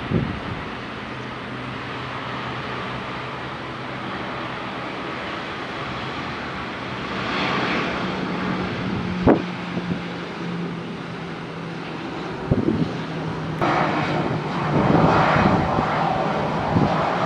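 Airbus A320 jet engines running as the airliner comes in to land, a steady hum that grows louder about halfway through and louder again near the end. A single sharp knock about nine seconds in.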